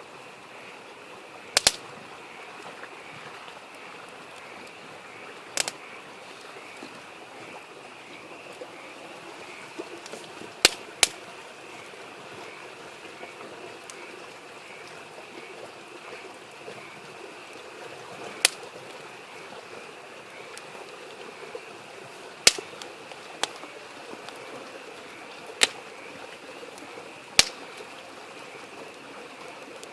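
Wood campfire crackling, with about nine sharp, irregularly spaced pops standing out over the steady rush of a babbling stream.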